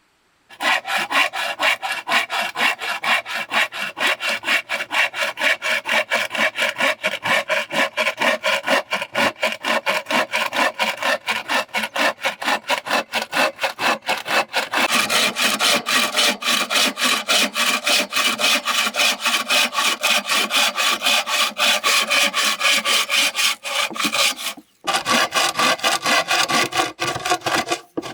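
Hand saw cutting bamboo in fast, even back-and-forth strokes, with two short breaks near the end.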